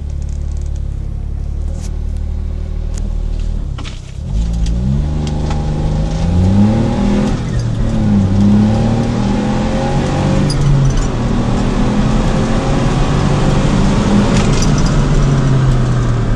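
Smart Brabus engine heard from inside the cabin: it runs steadily for the first few seconds, then from about four seconds in the revs climb in a full-throttle acceleration. The pitch falls back briefly at each gear change and then rises again.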